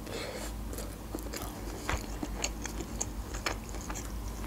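A person biting and chewing a mouthful of broccoli: irregular small crunches and moist clicks of chewing.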